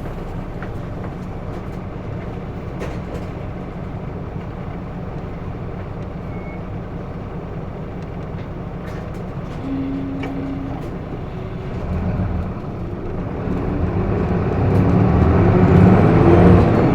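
Hino Blue Ribbon II city bus diesel engine heard from inside the cabin, idling steadily at a stop, with a brief single tone about ten seconds in. From about twelve seconds in the engine revs up and grows louder as the bus pulls away and accelerates.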